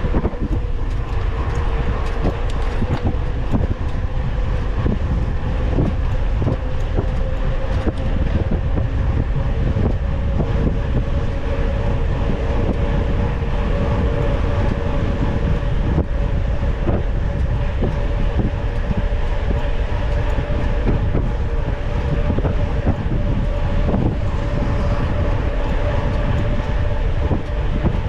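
Mountain bike being ridden at speed, heard from an onboard camera. Wind buffets the microphone, the bike rattles and knocks over rough ground, and a steady hum rises slowly in pitch.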